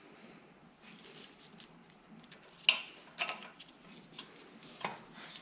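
Light metal clinks and taps of parts and tools being handled, with a few sharper ones in the second half, over the steady hiss of heavy rain outside.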